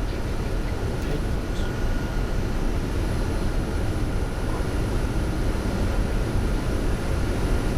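Steady rush of airflow and engine noise inside a Boeing 747-200 flight deck on final approach, with the landing gear down and flaps at 30. A thin, steady high tone runs through it.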